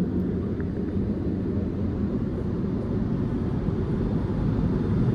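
Automatic car wash air-dryer blowers blasting air over the car, heard from inside the cabin as a steady low rumble that swells slightly near the end.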